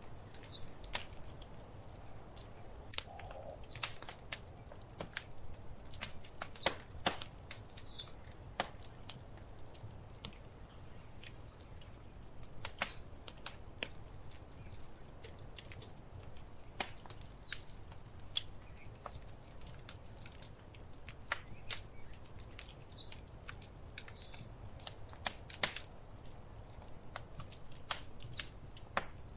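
Wood fire crackling in a fireplace: irregular sharp snaps and pops, a few each second, over a steady low rumble.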